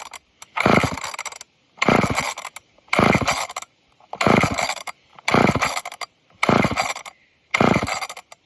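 Old two-stroke chainsaw being pull-started again and again: the recoil starter rope is yanked about seven times, roughly once a second, each pull spinning the engine over without it catching.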